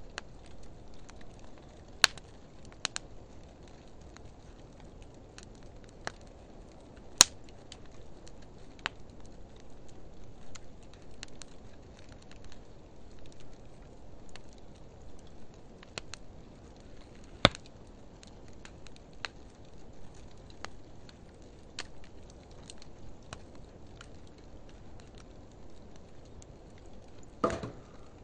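Wood fire of driftwood and dry hardwood logs burning in a steel fire pan: a steady low rush of flame with sharp crackling pops every few seconds, and a louder, longer crackle near the end. The pops come from the dry hardwood, since the driftwood alone does not crackle.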